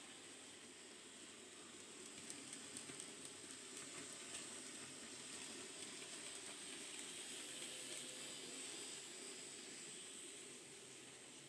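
Faint hiss and whir of an N gauge model train running on the track. Its small motor and wheels swell a little louder through the middle, with a few faint ticks early on from the wheels.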